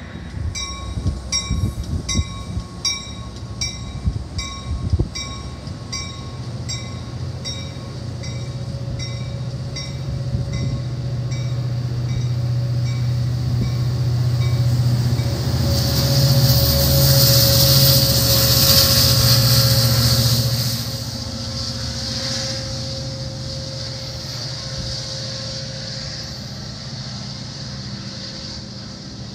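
Amtrak passenger train arriving: a bell rings steadily about twice a second for roughly the first half, while the low rumble of the diesel locomotive builds. It peaks with a loud hiss as the train rolls through, then drops back to a lower rumble.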